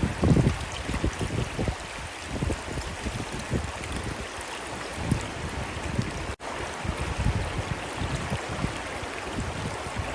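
River water flowing steadily, with low, irregular rumbles of wind buffeting the microphone.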